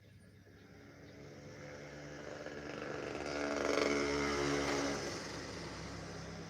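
A motor vehicle engine passing by: it grows louder, is loudest about four seconds in, then fades away.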